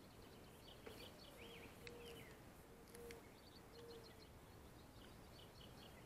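Faint wild birdsong: series of short high chirps and a rising call, with a low steady note held for about two seconds near the start, plus a few soft clicks.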